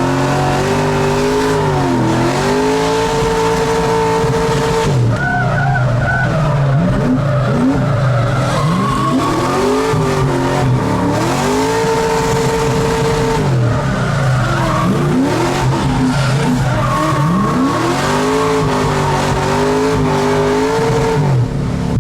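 Car engine revving hard through a run of drifts, with tyres squealing. The engine pitch climbs and holds high three times, dropping back in between.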